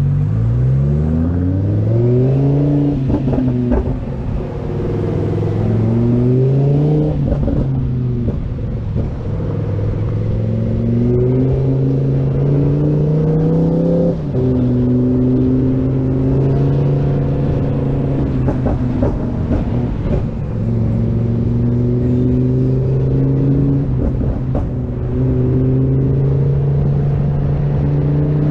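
Lamborghini Huracán's V10 engine pulling at low revs, its pitch climbing and then dropping back at upshifts about three, seven and fourteen seconds in, then holding a steady low-rev cruise.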